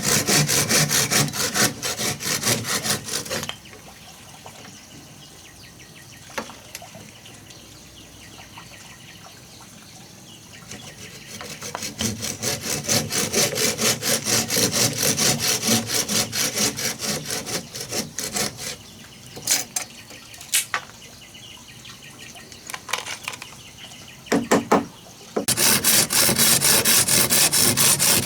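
Hand saw cutting wood in three bouts of quick back-and-forth strokes, with pauses and a few knocks between.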